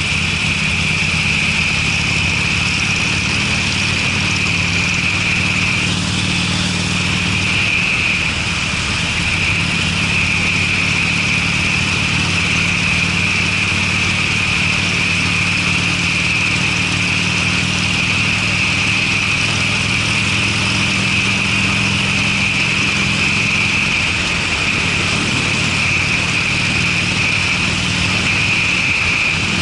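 Harley-Davidson Sportster's V-twin running through Screamin' Eagle mufflers while riding at a steady speed, a deep, low exhaust note that holds steady, easing briefly about eight seconds in and again about 24 seconds in.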